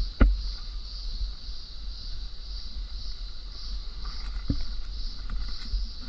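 Insects, crickets or similar, chirping in a steady pulsing chorus over a low wind-like rumble, with a sharp thump just after the start and a softer knock about four and a half seconds in.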